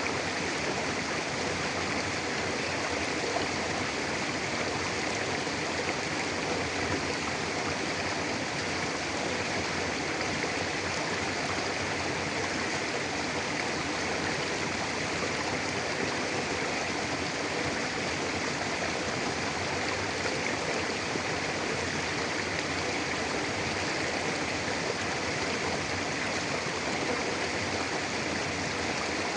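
Mountain river flowing steadily over rocks: a constant, even rush of running water.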